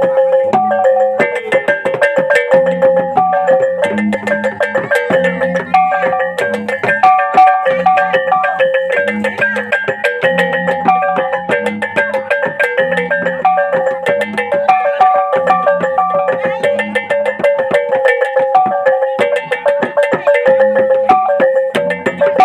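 Traditional Lombok gamelan music: struck metal keyed instruments play a busy repeating melody over a low beat that comes round about once a second.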